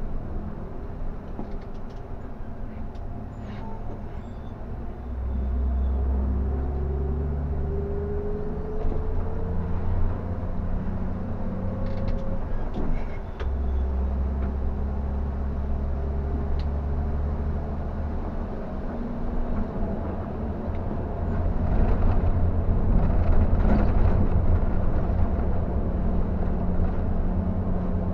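Scania K360 bus's diesel engine running as the bus drives along, heard from on board. The engine drone strengthens a few seconds in and rises slowly in pitch over several seconds, with a brief break partway through, over steady road noise.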